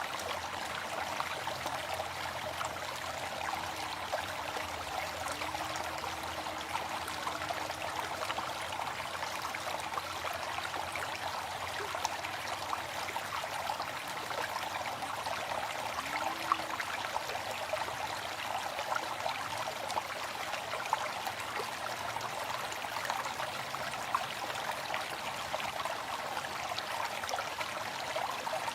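Waterfall: a steady, unbroken rush of falling water splashing.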